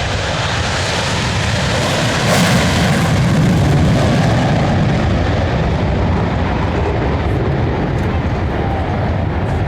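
Military aircraft flying past with loud engine noise that builds to a peak about three seconds in, then slowly eases off.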